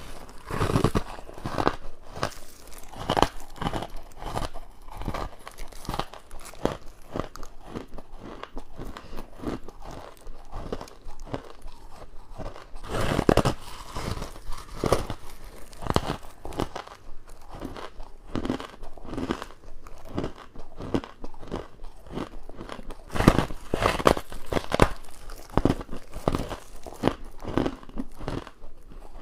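A person biting and crunching hard ice and frost close to the microphone: a rapid run of crisp crunches and bites, with louder bites near the middle and a cluster of loud ones toward the end.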